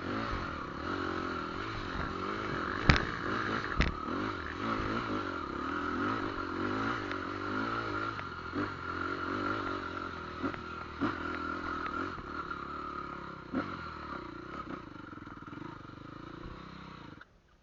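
A motor vehicle engine running, its pitch wavering up and down, with two sharp knocks about three and four seconds in. The sound cuts off abruptly just before the end.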